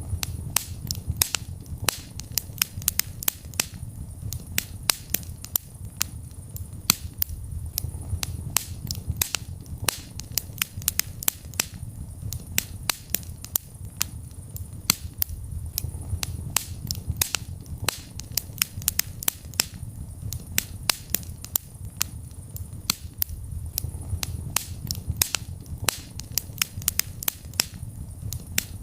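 Wood fire burning in a fireplace: sharp crackles and pops, several a second, over a steady low rumble of the flames.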